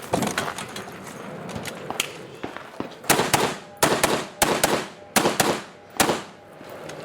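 Rifle shots from a competitor running a rifle-match stage: a few single shots early on, then a quick string of about eight shots, mostly in fast pairs, between about three and six seconds in.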